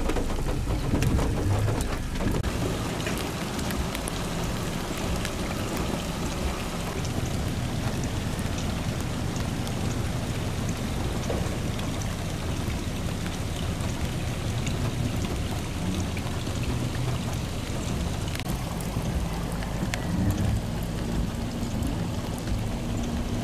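Steady rain falling onto standing floodwater, with a low rumble underneath throughout.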